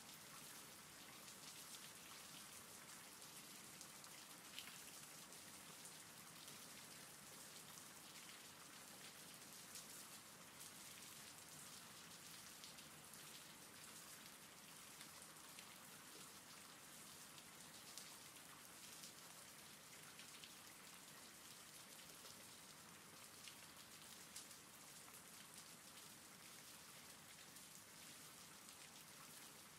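Faint, steady rainfall, with a few individual drops tapping out more sharply here and there.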